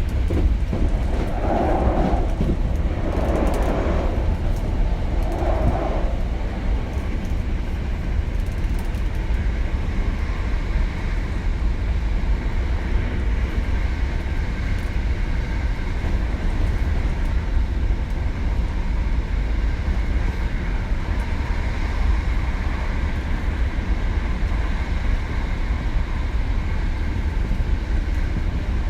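Running sound heard inside a Hankyu 7000-series electric train car at speed: a steady low rumble of wheels on rail. For the first several seconds rougher wheel-and-rail noise surges a few times, and later faint steady tones sit over the rumble.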